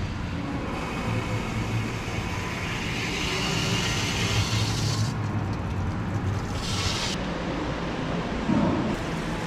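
Water valve just opened, with water rushing through the line in a steady hiss that briefly drops out and comes back, over a steady low hum.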